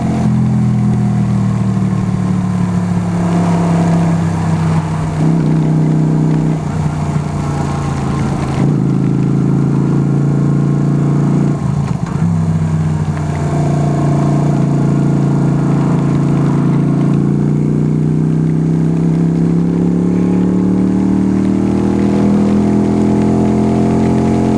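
Yamaha YBR 125's single-cylinder four-stroke engine pulling the bike along on the road, its pitch dropping at first with several short breaks, then holding steady and rising again near the end as it accelerates. A constant rush of wind noise runs over it.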